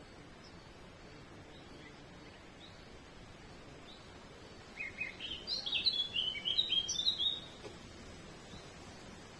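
A songbird sings one quick phrase of short, sharp chirping notes about halfway through, over steady outdoor background hiss; fainter, more distant chirps sound now and then.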